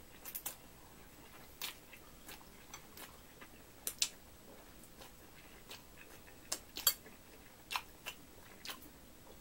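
A person chewing and sucking in mouthfuls of thick, sauced fried ramen noodles: scattered short wet clicks and smacks of the mouth, with quiet gaps between them.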